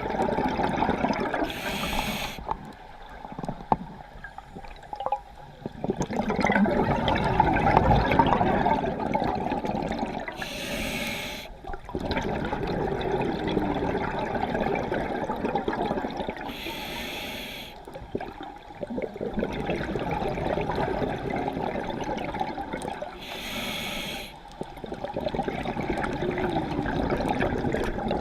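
Scuba diver breathing through a regulator underwater: four short inhalation hisses, each followed by a long rush of exhaled bubbles.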